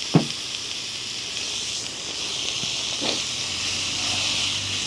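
Sliced steak frying in a pan with a steady sizzle, still brisk even though the stove is turned down low. There is a brief sharp sound just after the start.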